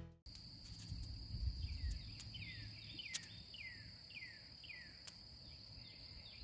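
Faint rural outdoor ambience: insects keep up a steady, high-pitched drone, while a bird repeats a short falling whistle about twice a second.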